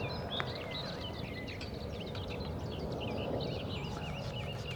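Several wild birds chirping and singing over a steady low rumble. In the second half one bird repeats a quick run of identical notes, about four or five a second.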